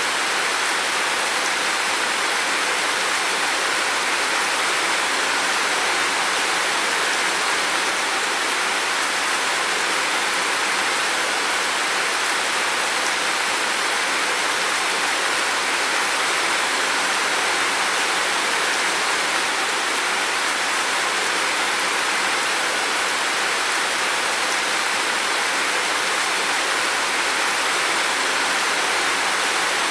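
Heavy rain pouring steadily: an even hiss with no separate drops, thunder or other events standing out.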